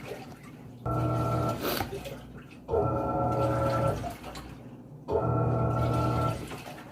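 Panasonic 14 kg washing machine agitating in its rinse cycle. Its motor runs in pulses of about a second and a half, three times, each a steady hum with a whine on top, and water sloshes softly in the pauses. The back-and-forth loosens the clothes so the fabric softener takes better.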